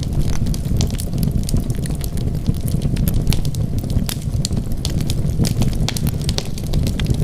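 Wood fire burning, with many irregular sharp crackles over a steady low rumble of the flames.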